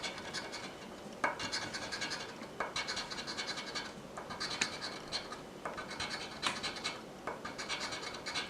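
Scratching the coating off an instant scratch-off lottery ticket: runs of quick, rasping strokes broken by short pauses every second or so.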